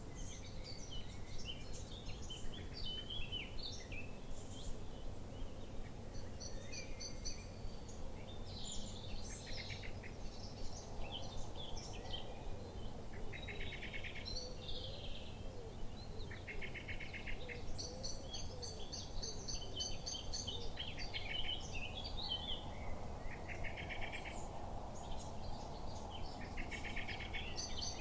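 Several wild birds singing and calling, a mix of short chirps and fast trills that overlap throughout, over a steady low background rumble.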